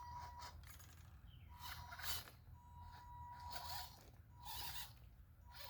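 Faint whine of a 1/12-scale RC crawler's small electric motor and gears in several short bursts, with a thin steady tone coming and going.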